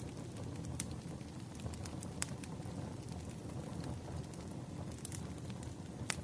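Campfire burning: a steady low rumble of flames with scattered sharp crackles and pops of burning wood, the loudest about two seconds in and just before the end.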